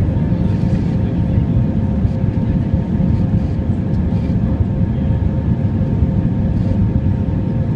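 Inside the cabin of an Airbus A320-200 under jet power: a steady, loud rumble of engine and airflow noise with a few faint steady engine tones over it.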